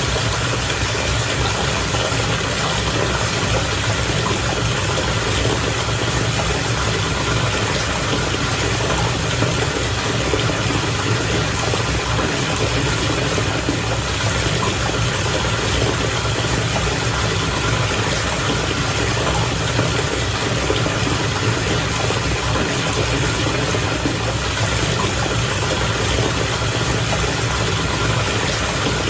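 Bath water bubbling steadily and without a break, with a low rumble underneath.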